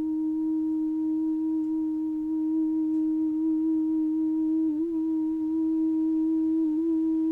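A single voice holding one long steady hummed note, the sustained 'mmm' of the heart-chakra bija mantra 'Yam', with slight wavers in pitch about five and seven seconds in.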